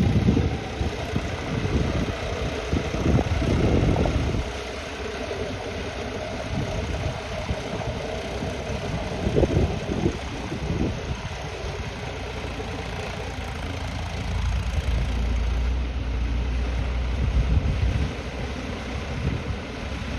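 Massey Ferguson 246 tractor's diesel engine running, louder in the first few seconds and again near the end.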